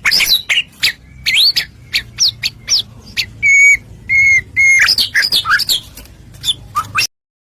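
White-rumped shama (murai batu) singing a fast, varied song of whistled notes, rising sweeps and harsh clicks, with three held whistles in a row in the middle. The song cuts off suddenly near the end.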